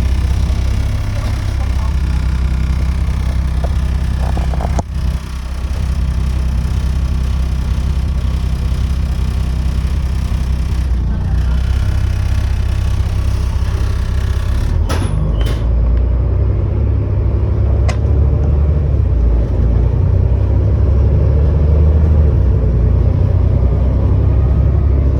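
Volvo B7TL bus's straight-six diesel engine running under way, heard from inside the bus as a loud, steady low drone, with a blown exhaust and rattles. The engine note dips briefly about five seconds in and builds a little in the second half, with a few sharp clicks around the middle.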